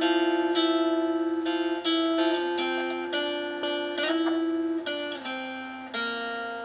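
Home-recorded guitar song: two guitar parts layered over each other, plucked melodic notes that ring and fade, with quickly repeated notes near the start. The two parts are not yet played in exact time together.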